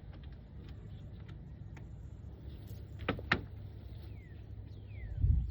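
A few sharp clicks and knocks of a wooden beehive being worked open, over a low steady rumble, with heavier thumps starting at the very end. A bird gives a few short falling whistles in the second half.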